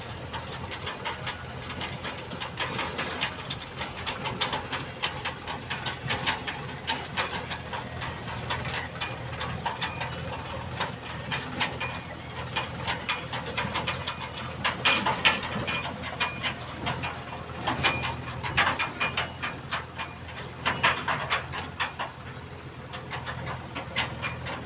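Diesel earthmoving machinery running steadily under a dense, irregular clattering and rattling, with louder bursts of clatter midway and again near the end.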